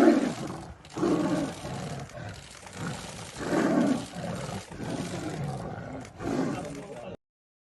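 Big cat giving a series of low, rough roars and growls, about one a second, before the sound cuts off abruptly near the end.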